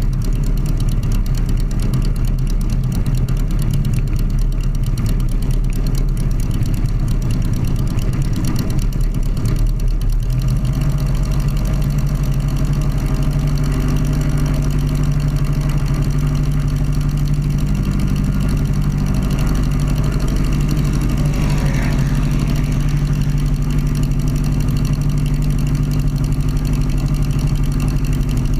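Sonerai's Volkswagen-based air-cooled flat-four aircraft engine running steadily during its break-in, its note shifting to a new steady pitch about ten seconds in.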